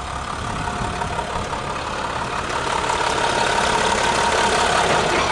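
Diesel engine of an International 4300 chipper truck idling steadily, with a faint steady whine over the rumble, gradually getting louder.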